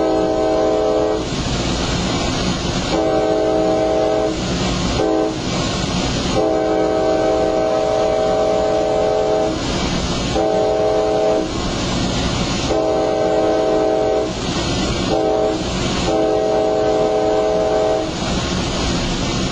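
Train horn sounding two grade-crossing sequences of long, long, short, long blasts, each blast a multi-note chord, over the steady rumble of the train running on the rails.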